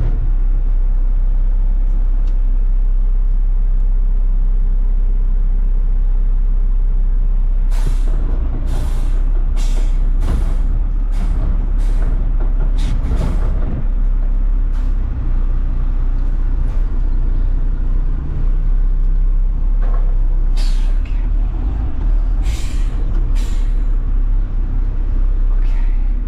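Front-load garbage truck's engine running steadily, with a string of short, sharp air hisses about 8 to 14 seconds in and again around 20 to 23 seconds in.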